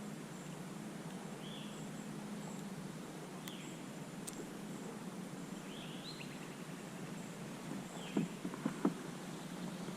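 Outdoor ambience with a bird giving a short chirp about every two seconds over a steady hiss. A few light knocks come about eight to nine seconds in.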